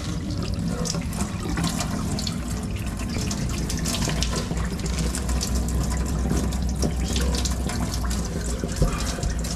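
Faucet running into a sink, a steady splash of water.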